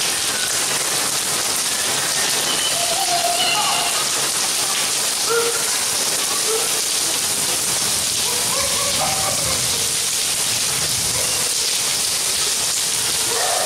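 Steady rain falling and spattering on wet paving, an even constant hiss, with faint voices now and then.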